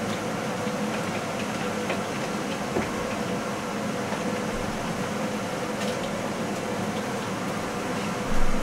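Lit forge running: a steady rushing noise with a low hum. A short knock sounds near the end.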